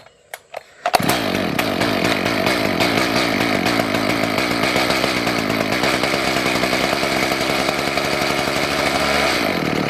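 Echo CS-590 Timberwolf two-stroke chainsaw engine catching about a second in on premix poured into the carburetor, running fairly steadily for about eight seconds, then dying near the end. The owner takes this for a fuel problem.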